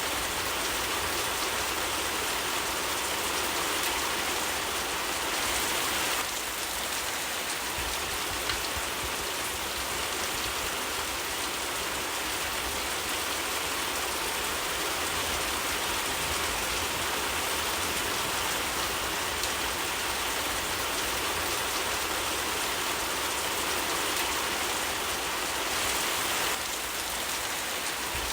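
Steady rain falling: a continuous, even hiss of rain on surfaces, with a few faint ticks.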